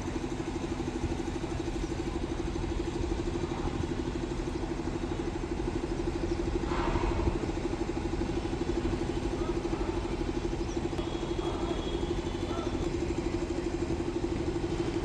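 An engine running steadily at a constant speed, a low hum with a fast, even pulse, with a brief louder stretch about halfway through.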